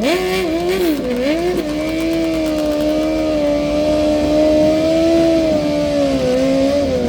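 A motorcycle engine revved and held at high revs, its pitch steady apart from brief dips about a second in and around six seconds.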